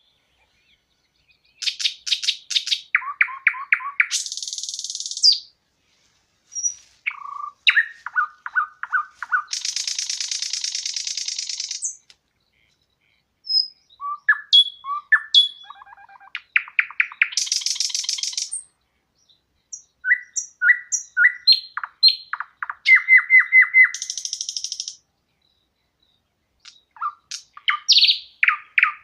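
A songbird singing about five song phrases, each a second or so apart, each made of quick repeated notes and trills that end in a long high buzzy trill.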